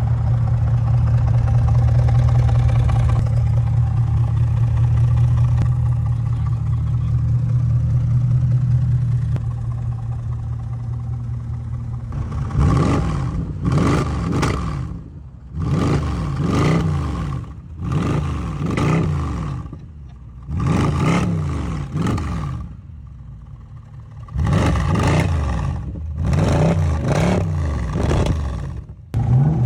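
V8 car engines, a Mercedes C63 AMG's 6.2-litre M156 and a Hyundai Genesis 5.0, in a rev battle. For about twelve seconds an engine runs steadily with a deep low drone. Then comes a series of about seven sharp throttle revs, each rising and falling away, with short pauses between.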